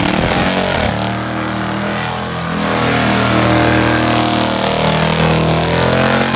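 Car engine revving hard at high rpm, its pitch climbing and dropping several times over a loud noisy wash.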